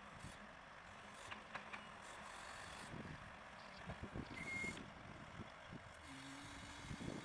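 Faint, distant heavy-vehicle and machinery noise, with a few soft knocks and one short high beep about four and a half seconds in.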